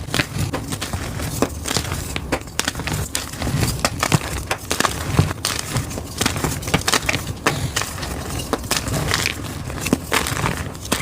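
Blocks of gym chalk being crushed: a dense, irregular run of crisp crunches and crackles that keeps going steadily.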